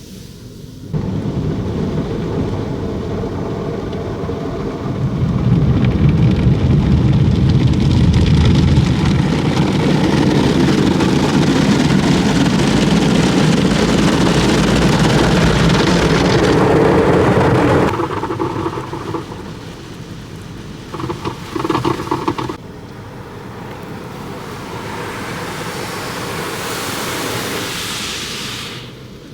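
Automatic car wash spraying water over the car, heard from inside the cabin: a loud, steady rush of water hitting the body and roof. It is heaviest through the middle, then eases, with a few short bursts and a softer spray near the end.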